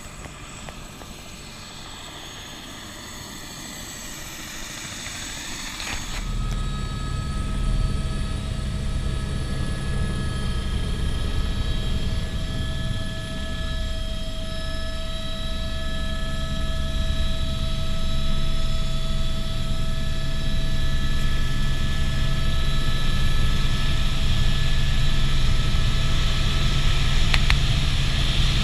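Helicopter's turbine engine and rotor, quieter for the first few seconds. About six seconds in, a heavy low rotor drone and steady whining tones come in and grow gradually louder.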